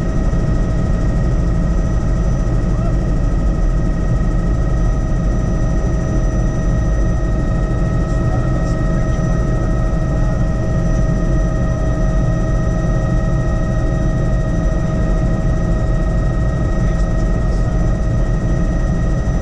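Helicopter in flight, heard from on board: a steady loud drone of rotor and engine with several constant high tones running over it, unchanging throughout.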